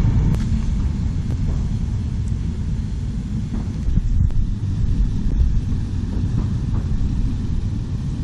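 Wind buffeting the microphone: a steady low rumble with a few faint ticks.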